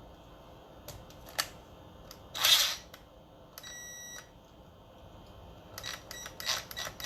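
Small workbench handling noises, a few sharp clicks and a short scraping rasp, as a screwdriver and connector parts are worked. Partway through there is one short electronic beep, and the clicking picks up again near the end.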